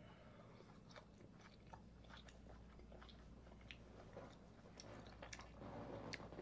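Faint close-up chewing of a mouthful of food, with small scattered mouth clicks.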